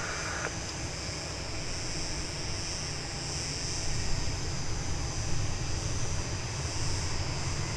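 Steady jet engine noise of an Airbus A320neo at a distance: a low rumble with hiss, swelling slightly about four seconds in.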